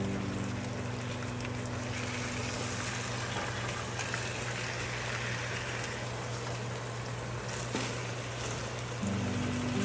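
Chicken bubbling and sizzling in its soy-ketchup marinade in a frying pan as the sauce cooks down, over a low steady hum. Background music comes back near the end.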